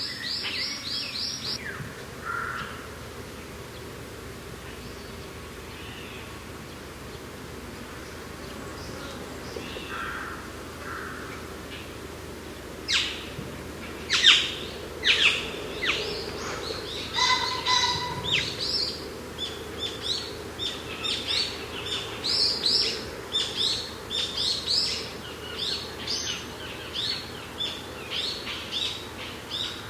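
Songbirds chirping and singing over a steady low rush of wind. A quick run of chirps at the start gives way to a quieter stretch of scattered calls, then from about halfway dense, rapid chirping carries on.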